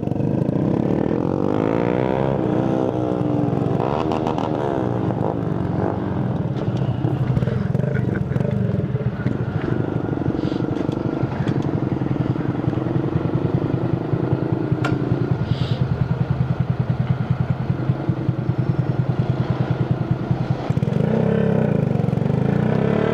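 Tuned 50cc Shineray Phoenix moped engine running under way, its pitch sweeping up and down with the throttle in the first few seconds, then settling into an even pulsing for a few seconds past the middle.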